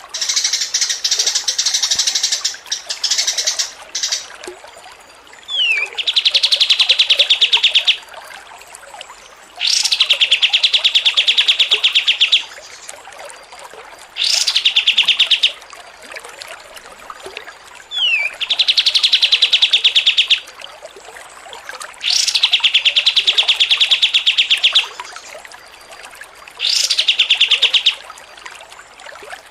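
Songbird singing: after a scratchy chattering phrase at the start, it gives a series of long, very fast trills, each lasting one to three seconds with short pauses between, some opening with a quick sliding whistle or a high rising note.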